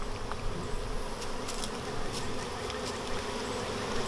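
A honey bee colony buzzing steadily, many bees in flight together around an open hive.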